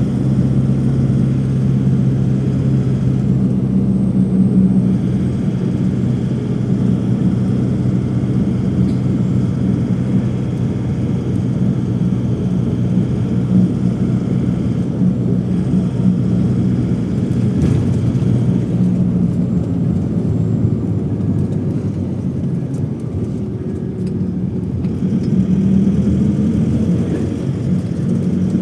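Steady low engine drone heard from inside a moving vehicle's cabin, with a constant low hum under it that eases slightly about three-quarters of the way through.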